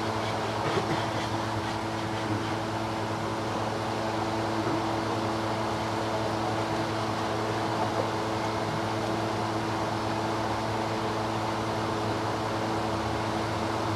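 Steady mechanical hum with several constant tones, running evenly without change.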